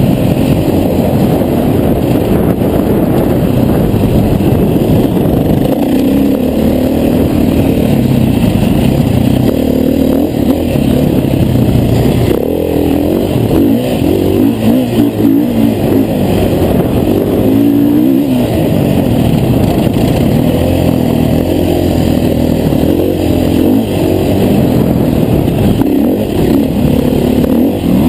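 KTM 500 EXC enduro bike's single-cylinder four-stroke engine heard from on board at full ride, revving up and falling back several times as the throttle opens and closes.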